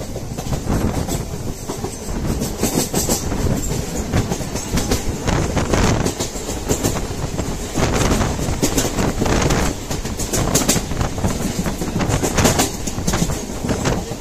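MEMU electric train running along the track, heard from inside the coach: a steady rolling rumble with the wheels clicking irregularly over rail joints.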